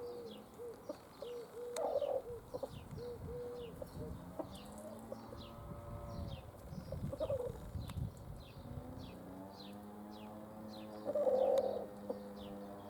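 Birds calling: short high chirps repeating about twice a second throughout, with lower cooing notes beneath them, held longer later on.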